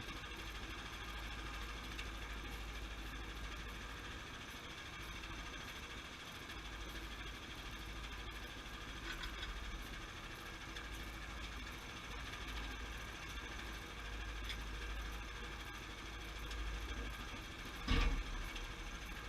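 Sawmill engine running steadily, with one sharp knock near the end.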